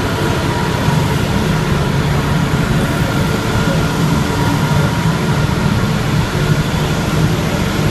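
82 class diesel-electric locomotives hauling an empty coal train, their engines running with a steady low hum as they pass slowly.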